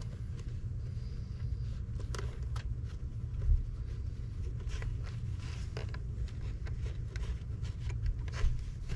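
Scattered rubbing, scraping and light knocks as the door sill scuff plate is wiped clean and handled, with a louder knock about three and a half seconds in and again near the end, over a steady low hum.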